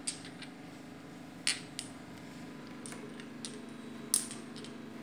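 Domino tiles clacking against each other and the table as they are set out in a line: a handful of separate sharp clicks, the loudest about one and a half and four seconds in.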